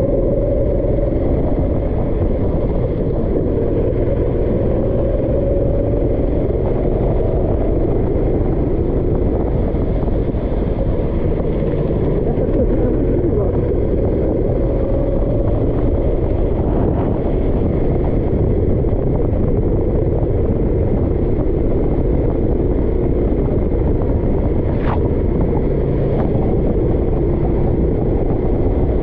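Kart engine running continuously at speed, its pitch wavering slightly, under a steady rushing noise.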